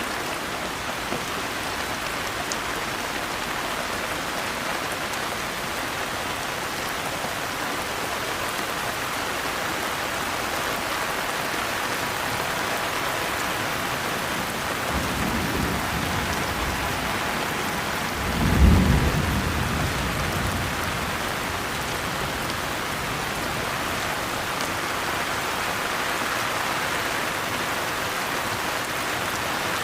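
Steady rain falling in an even hiss, with thunder: a faint low rumble about halfway through, then a louder crack of thunder about two-thirds in that rolls away over a couple of seconds.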